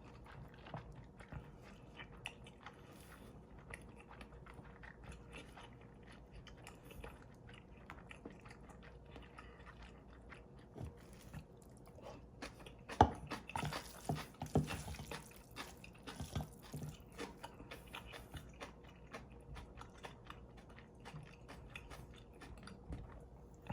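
Close-miked mouth sounds of a person eating cold mixed noodles: chewing with many small, irregular wet clicks. There is a louder, busier run of eating noises a little past halfway.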